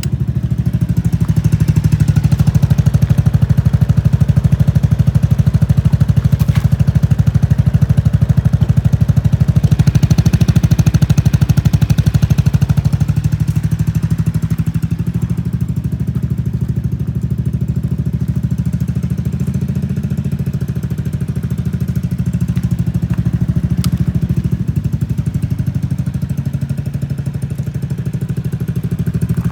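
Honda Fusion scooter's single-cylinder four-stroke engine idling steadily after being started, its engine speed checked to be running. It is slightly louder for the first half, eases a little about halfway through, and picks up again near the end.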